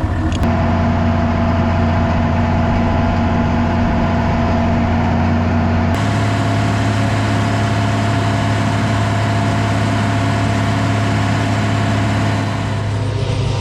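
Farm tractor's diesel engine running steadily at a constant speed. About six seconds in, the hum changes abruptly to a slightly different steady pitch.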